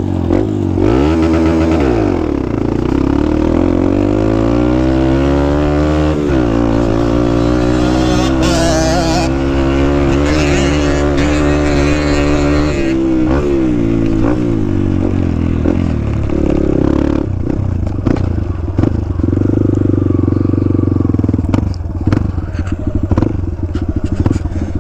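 A dirt bike engine revving up and down as it rides. The revs are held high for several seconds, then drop to a lower, steadier run, with a few knocks near the end.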